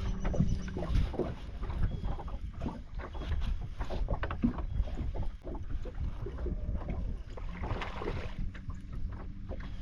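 Water slapping against the hull of a small fishing boat, with wind on the microphone and scattered small knocks. A steady hum stops about half a second in.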